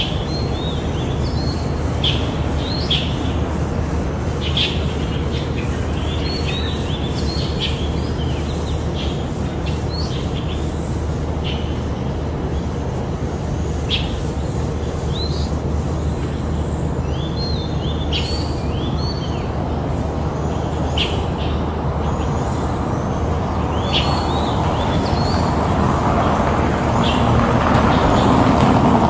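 Oriental magpie-robins chirping in short, separate notes, repeated throughout, over a steady rumble of road traffic that grows louder near the end.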